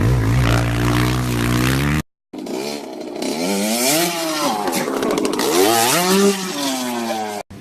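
Motorcycle engine running at high revs, with a brief cut about two seconds in. After the cut, a motorcycle engine revs up and down several times before cutting off again near the end.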